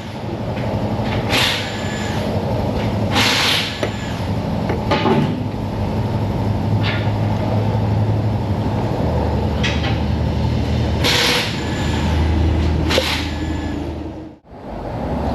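Tools working in an engine bay: a series of short rasping, clattering bursts over a steady low hum, as ignition coils and spark plugs are removed.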